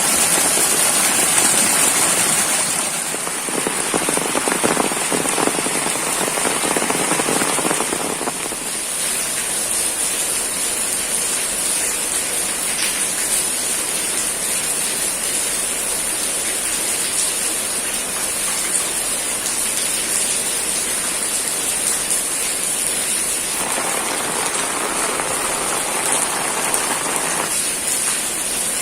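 Steady rain falling, a continuous hiss with no breaks. It is heavier for the first eight seconds or so and swells again for a few seconds near the end.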